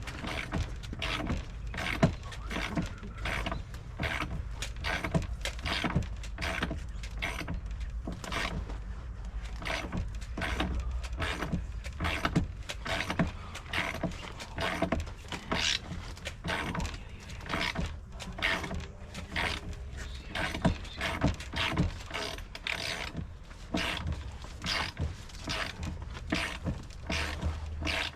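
Irregular clicking and knocking of hand tools at work on wooden deck framing, several sharp clicks a second, over a steady low rumble.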